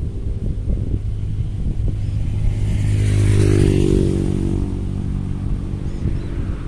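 A motor vehicle's engine passing by, growing louder to a peak about three and a half seconds in and then fading away.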